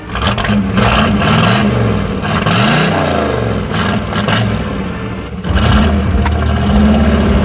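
Chevrolet El Camino's small-block V8 running through a freshly made homemade exhaust, revved up and down a few times in the middle, then running louder and steadier from about five and a half seconds in.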